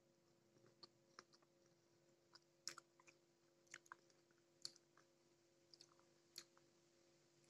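Faint, irregular clicks and crunches of a mouth chewing firm mango pieces coated in thick rujak sauce, over a low steady hum.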